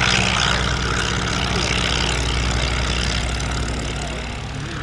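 Piston engine of a propeller aircraft running steadily, a low engine drone under a broad rushing noise, easing off slightly near the end.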